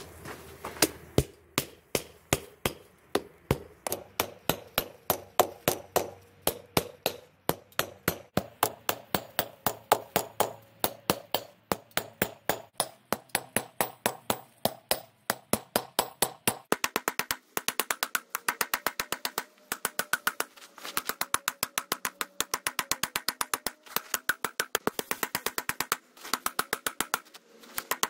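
Hand hammer striking hot spring steel on an anvil in a steady forging rhythm of about two to three blows a second, each blow ringing briefly. A little over halfway through the ring turns higher.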